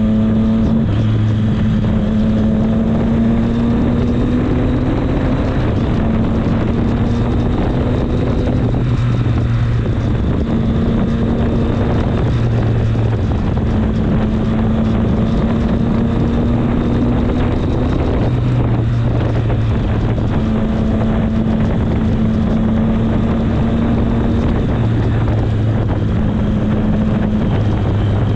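Triumph Street Triple 765's inline three-cylinder engine running at a fairly steady cruise while the motorcycle is ridden, the engine note holding or creeping up a little in stretches of a few seconds. Wind rushes across the microphone throughout.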